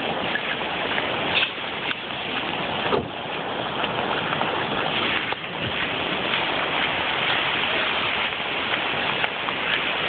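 Steady rushing roar of the flooded Saco River's swollen current, with a few faint knocks.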